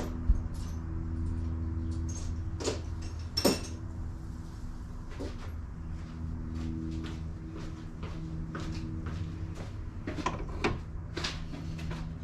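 Scattered clicks and knocks of tools and parts being handled during hand work on a car, with a sharper knock about three and a half seconds in, over a steady low hum.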